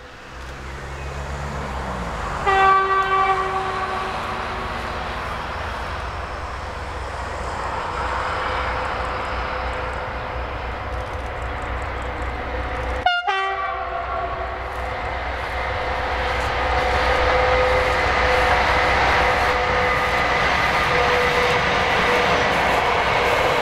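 Newag Dragon locomotive E6ACTd-101 hauling a passenger train past, with a steady low rumble that grows louder in the second half. Its horn sounds twice, about a second long a few seconds in and briefly again about halfway, the second blast just after a sharp click.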